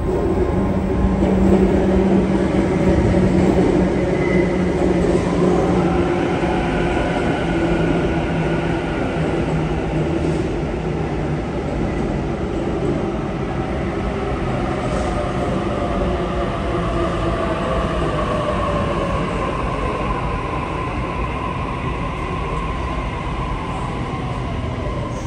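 Sydney Trains double-deck electric train pulling into the platform, with a running rumble and a motor whine that falls slowly in pitch as it brakes.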